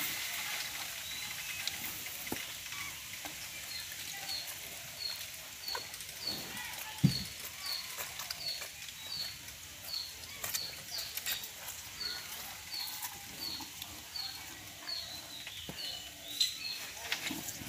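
A bird chirping over and over, short high calls about two a second, starting a few seconds in, with scattered soft clicks and one thump about seven seconds in.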